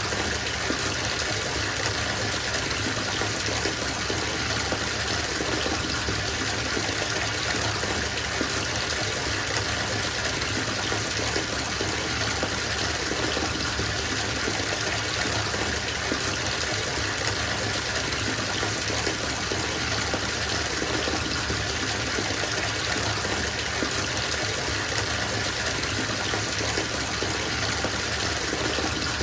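Tap water gushing steadily into a filling bathtub, a continuous even rush.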